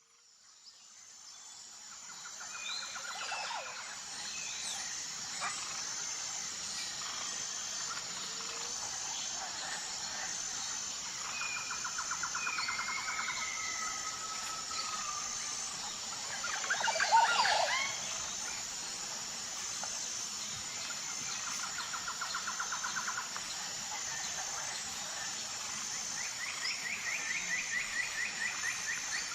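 Natural ambience fading in: a steady high-pitched insect chorus with several bird chirps and rapid trills over it, and one louder, more complex call about two-thirds of the way through.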